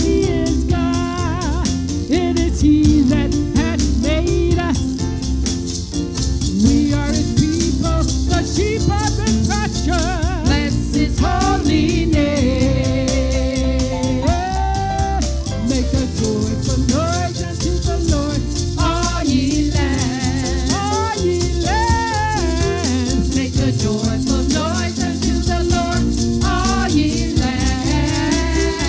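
Upbeat gospel praise music: a band with a steady beat and a shaking rattle-type percussion keeping the rhythm, with singing voices over it.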